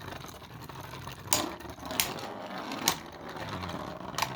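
Two 3D-printed Beyblade spinning tops whirring and grinding in a plastic stadium, with four sharp clacks as they collide.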